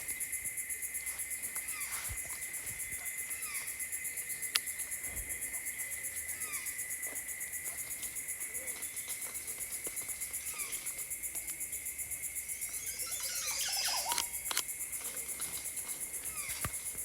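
Tropical rainforest ambience: a steady, rapidly pulsing high insect trill over a steady lower insect drone, with short downward-sliding calls repeating every second or so. A brief burst of busier bird song comes about thirteen seconds in.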